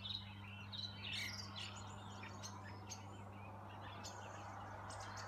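Faint chorus of small birds chirping, with short calls and quick gliding notes, busiest in the first second or so, over a steady low hum.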